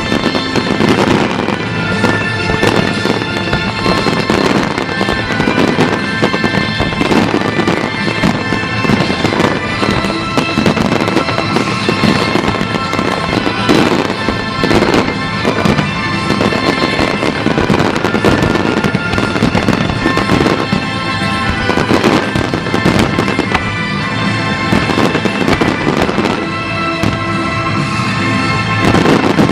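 Fireworks bursting in a dense, continuous barrage of bangs and crackles, with music playing throughout.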